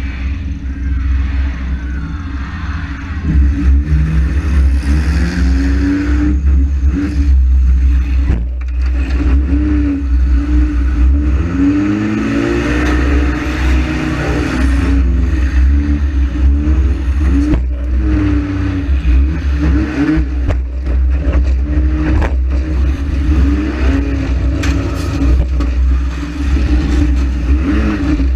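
Demolition derby car's engine revving hard over and over, its pitch climbing and falling as it accelerates and backs off, over a heavy low rumble. Several sharp bangs and clattering hits cut through, the sound of cars colliding.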